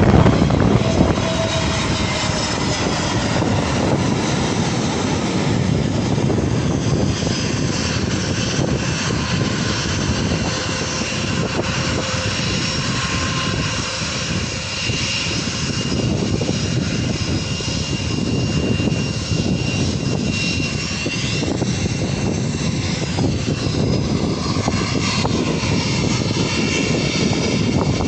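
Airliner's engines running loud and steady: a heavy rush of noise with a high whine on top, the whining tones bending up and down in pitch about twenty seconds in.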